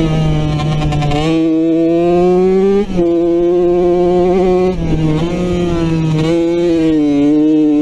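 Off-road racing motorcycle engine running hard under load, heard on board: its pitch climbs slowly, then the revs drop sharply and briefly about three seconds in and again near five seconds in before it pulls up again.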